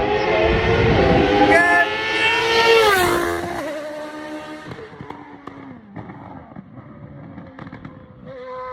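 A car engine accelerating hard, its pitch climbing, then dropping sharply about three seconds in before the sound fades away.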